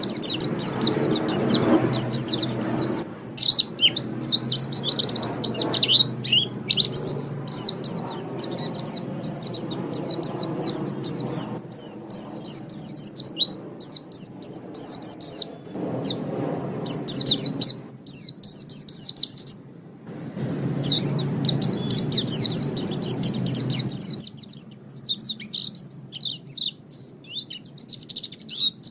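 White-eye (pleci) singing: a fast, continuous stream of high chirps and twittering trills, with a low background noise that comes and goes.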